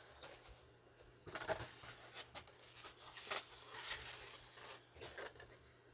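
Soft rustling and scraping of paper craft supplies being handled and searched through, in a few short spells about a second and a half in, around the middle, and near the end.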